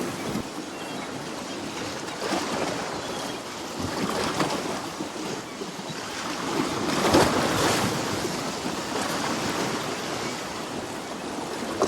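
Sea waves washing onto the shore, with a swell that builds to its loudest about seven seconds in.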